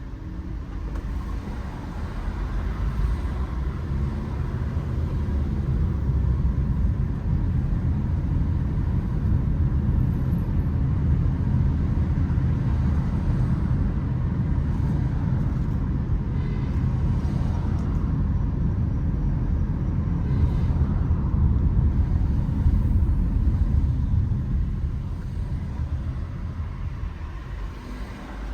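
Low, steady rumble of a motor vehicle and road noise on a city street, building over the first few seconds and easing off near the end.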